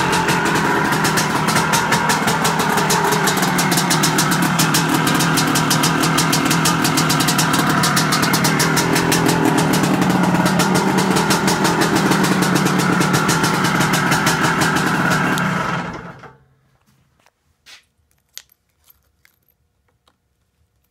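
1975 Aermacchi Harley-Davidson SX250's two-stroke single-cylinder engine running steadily with a rapid firing beat, then stopping about sixteen seconds in. A few faint clicks follow.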